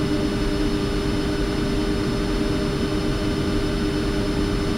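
Steady flight-deck noise of a Boeing 747-400 taxiing with its engines running: an even rushing hum with two steady low tones through it.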